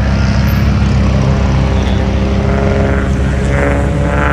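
A car engine running steadily close by, a low drone with slight drifts in pitch.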